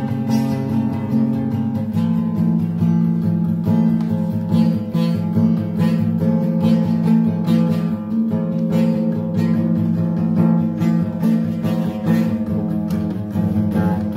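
Acoustic guitar strumming chords in an instrumental music passage, with the chord changing about two seconds in.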